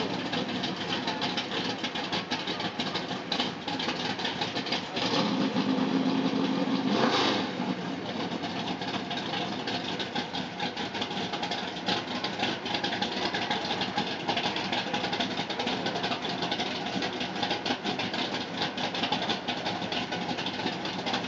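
A vehicle engine running amid a dense crackle of outdoor noise. A low steady tone stands out for about two seconds, some five seconds in.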